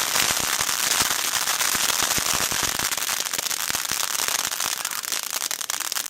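Fireworks crackling: a dense, rapid run of small pops and snaps blurring into a continuous crackle, thinning slightly toward the end.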